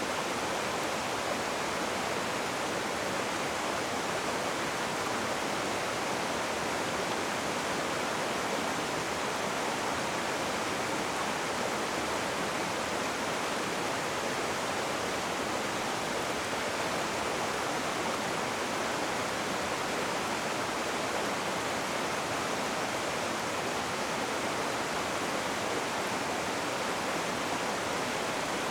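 Rushing river water, a steady even rush with no breaks or changes.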